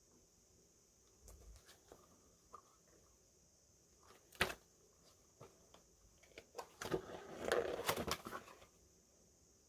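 Hands handling packaging and paper merchandise on a table: scattered light taps and clicks, one sharp click about halfway through, then a couple of seconds of rustling and knocking near the end.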